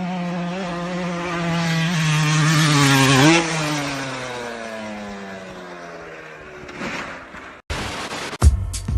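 A motor vehicle engine passing by: it grows louder to a peak about three seconds in, then drops in pitch and fades away as it goes past. Near the end the sound cuts and music begins.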